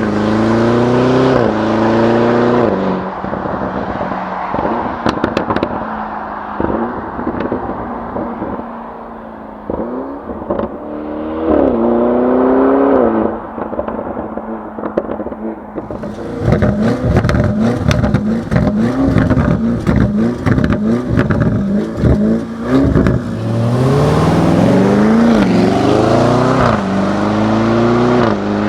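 Lamborghini Urus Performante's twin-turbo V8 pulling hard through several upshifts, easing off with exhaust crackles and pops, then a stretch of short rev bursts with a rapid string of pops about halfway through, and another pull up through the gears near the end.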